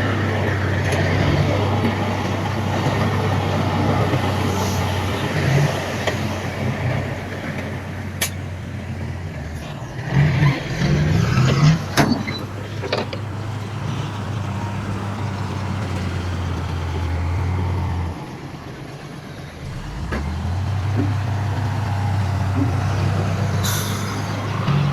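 Heavy diesel earthmoving machinery, dump trucks and a bulldozer, running steadily with a deep engine hum, a few sharp clanks, and a louder rough stretch about ten to twelve seconds in. The engine note drops away briefly near the end and then picks up again.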